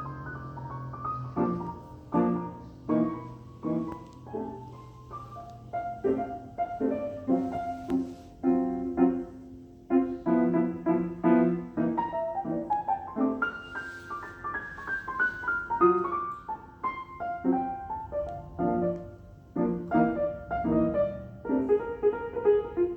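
Steinway Model D concert grand piano being played: struck chords and melodic lines, with a descending run of notes about two-thirds of the way through.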